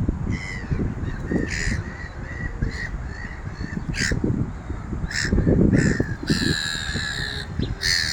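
Birds calling: a series of short calls, then a longer call about six and a half seconds in and another near the end, over a steady low rumble.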